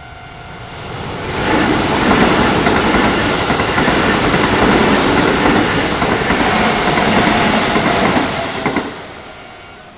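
Keisei Main Line electric train passing over a level crossing, its wheels running on the rails. The sound swells about a second in, stays loud for about seven seconds and dies away near the end. At the start, the steady tones of the crossing's warning bell can be heard until the train drowns them.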